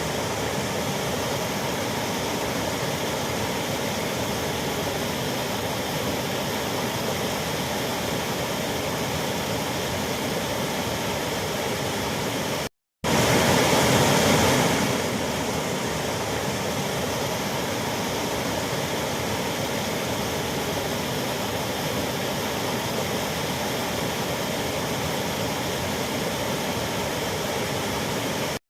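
Waterfall's steady rushing roar of falling water, unchanging except for a brief total dropout about 13 seconds in, after which it is a little louder for a couple of seconds.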